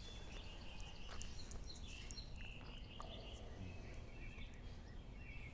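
Faint outdoor ambience: scattered bird chirps over a steady low background rumble.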